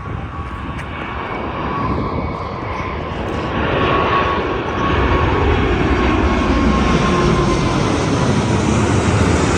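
Airbus A380's four jet engines at takeoff power as it climbs out overhead. A dense rumble grows louder over the first few seconds, and whining tones slide down in pitch as the plane passes over.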